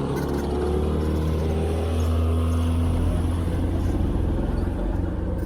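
9.9 hp Mercury outboard motor running under throttle, pitch rising a little in the first second and then holding steady at speed.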